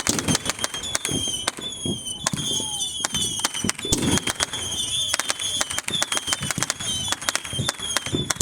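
Fireworks going off: a rapid run of sharp cracks and bangs mixed with deeper booms. A high, short chirping tone repeats throughout.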